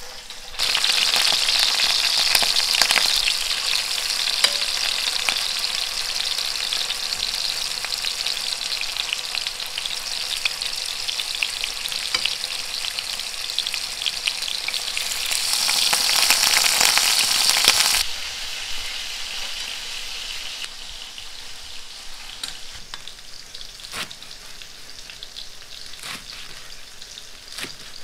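Tofu blocks frying in hot oil in a nonstick pan, a loud sizzle that starts about half a second in as they go into the pan. About 18 seconds in it drops suddenly to a quieter sizzle, with a few sharp knocks near the end.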